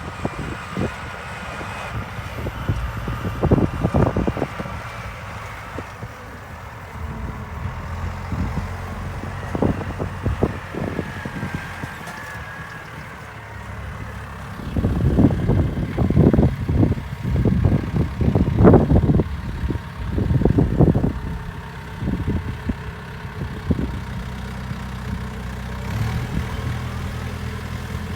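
Diesel engine of a Hydrema 912 dumper running steadily at low revs, with irregular louder rumbling bursts about halfway through.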